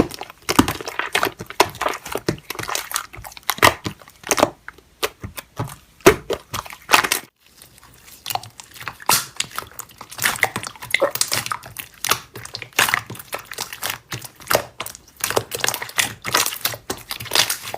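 Slime being squished and poked by hand, making dense, irregular crackling and popping clicks, with a short pause about seven seconds in.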